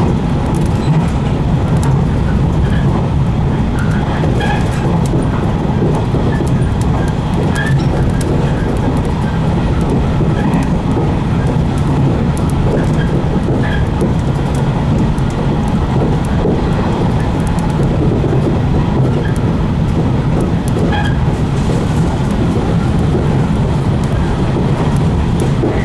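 115 series electric multiple unit running steadily along the line, heard from inside the cab: a continuous low rumble of wheels on rail and traction motors, with scattered faint ticks and clicks over it.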